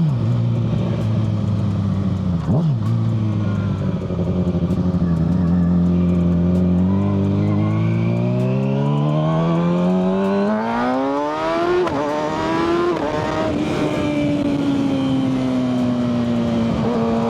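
Kawasaki ZX-6R 636 inline-four with a Yoshimura full exhaust under way: it holds steady revs, then the revs climb under acceleration for several seconds, with a shift about twelve seconds in and a short second climb, before it settles back to a steady cruise.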